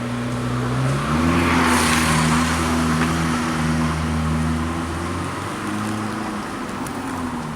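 A supercar's engine running, its pitch holding steady for a few seconds at a time and shifting in steps, with a brief rushing hiss about two seconds in.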